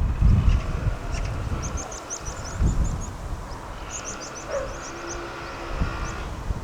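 Small birds twittering in quick runs of high chirps, over a steady low city hum, with low gusts of wind buffeting the microphone near the start and a few seconds in.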